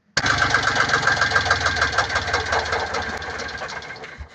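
Volvo Penta 2003 three-cylinder marine diesel engine running with a rapid, even diesel knock. It cuts in suddenly, weakens from about three seconds in and stops just before the end.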